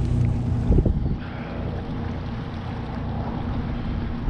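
Small fishing boat's motor running steadily under wind and water noise, with one short thump about a second in.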